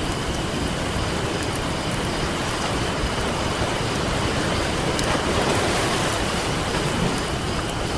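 Ocean surf washing steadily, with a wave swelling in about five seconds in, and a few sharp pops from a crackling campfire.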